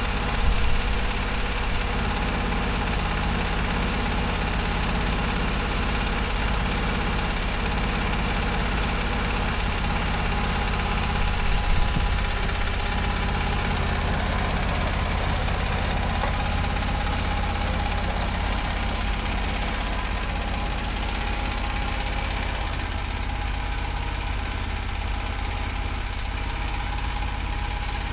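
An engine running steadily. Its low tones ease off slightly about two thirds of the way through.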